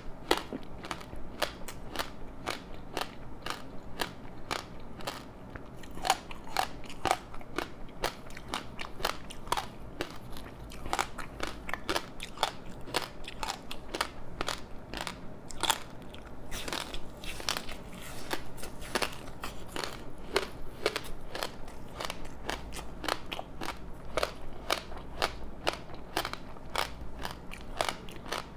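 Chewing and biting a crispy seaweed-wrapped rice snack: a dense, continuous run of crunches and crackles, several a second.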